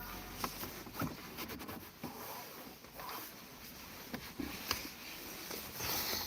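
Light rain on a car roof heard from inside the car: scattered irregular drop ticks over a faint hiss.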